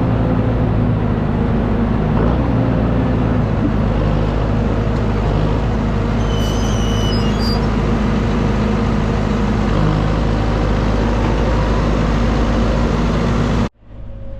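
John Deere tractor engine running steadily under load, a loud even drone with a low hum. A brief faint high tone sounds about halfway, and the sound cuts off suddenly near the end.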